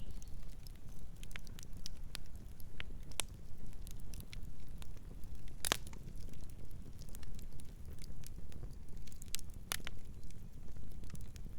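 Campfire burning with a steady low rumble and scattered sharp crackles and pops of burning wood, two of them louder about six and ten seconds in.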